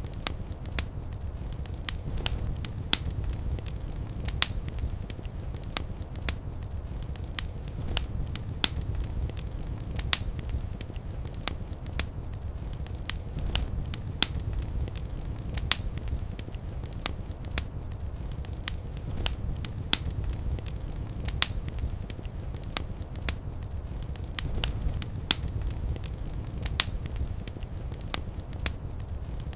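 Wood fire in a fireplace crackling, with irregular sharp pops and snaps several times a second over a steady low rumble of burning.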